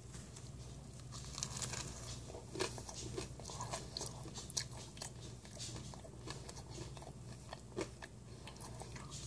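Biting into and chewing a sandwich of toasted waffles, scrambled eggs and bacon, close to the microphone: irregular crisp crunches and wet mouth clicks, over a steady low hum.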